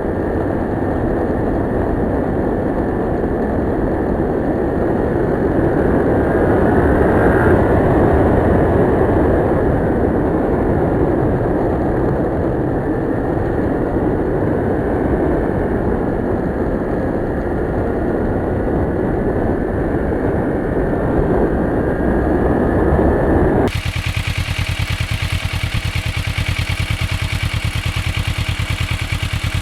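Kawasaki Ninja 650R parallel-twin engine running while riding, heard with a dense, muffled rush of noise. About 24 s in, the sound cuts abruptly to a clearer, steady engine note with a fast, even pulse.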